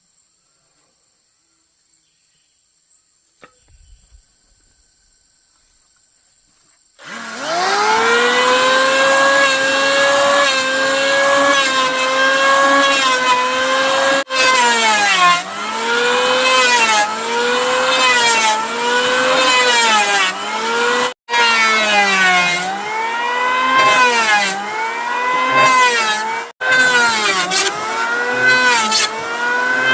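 Near silence for about seven seconds, then a power saw starts up loud and runs, its motor pitch sagging and recovering over and over as it bites into wood. It cuts out abruptly three times for a moment.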